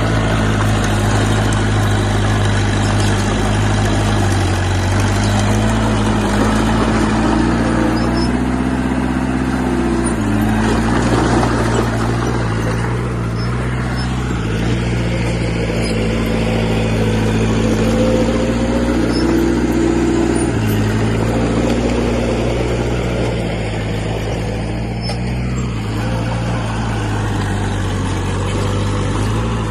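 Heavy diesel engine of an earthmoving machine running steadily, its pitch shifting up and down a few times as throttle and load change.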